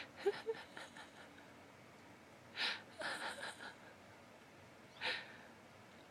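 Stifled laughter: breathy snorts and puffs of held-back giggling in three short bouts, each breath followed by a few quick pulses.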